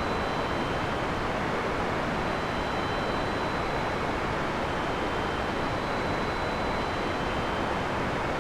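Heavy rain falling in a steady, even downpour, with no thunder. A few faint steady high tones run through it.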